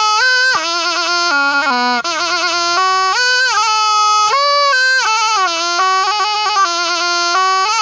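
Thai pi, a reed oboe, played solo: one unbroken melody that steps between notes with rapid warbling trills, with only a brief break about two seconds in.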